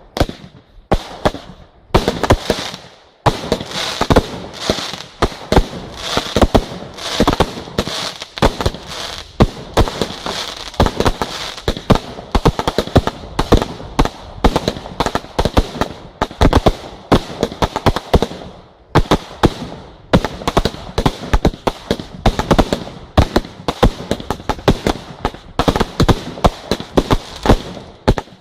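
A fireworks display going off: a rapid, unbroken barrage of sharp bangs and crackling, many reports a second, with a brief lull about two-thirds of the way through.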